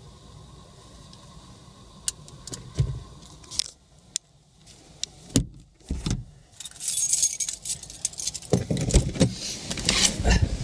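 Sharp clicks and rattles of handling inside a parked car, then gusty storm wind buffeting the microphone from about seven seconds in.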